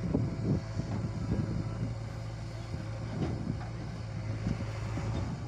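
Massey Ferguson tractor's diesel engine running steadily, with wind buffeting the microphone.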